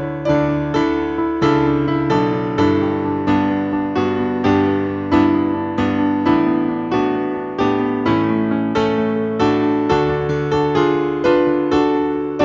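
Solo piano music: chords struck about twice a second, each fading before the next.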